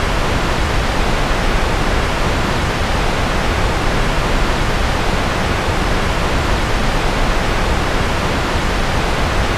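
Steady synthetic noise of the white-noise kind used for focus: a constant, even hiss with no changes, weighted somewhat toward the low end.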